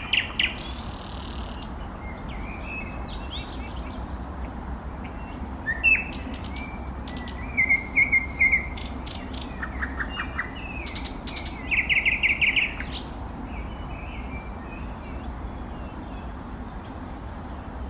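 Eastern nightingale singing: separate phrases of sharp clicks, whistled notes and fast repeated trills with pauses between them, the strongest trills about eight and twelve seconds in, over a steady low hum.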